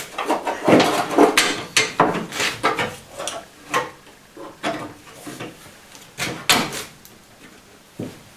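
Irregular clicks, knocks and light clatter of car parts and hand tools being handled during reassembly.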